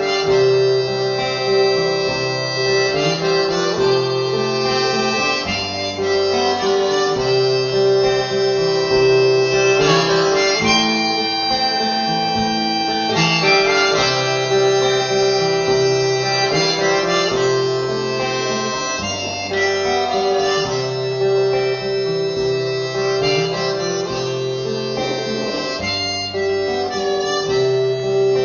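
Harmonica playing a held, wailing melody over guitar chords, in an instrumental break between sung verses.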